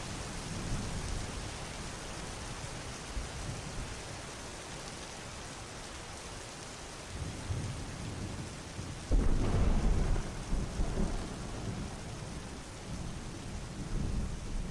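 Thunderstorm: steady heavy rain with low rolling thunder, and a sharp, louder thunderclap about nine seconds in that rumbles on for a few seconds.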